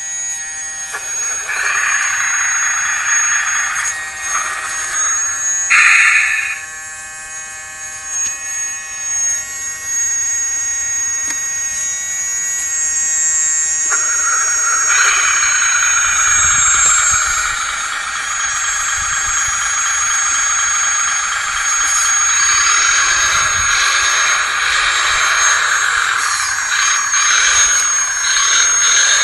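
1/16 scale full-metal RC hydraulic Volvo wheeled excavator working: its hydraulic pump whines steadily under a hissing whirr that rises and falls as the machine moves, changing about 14 seconds in and again near 22 seconds.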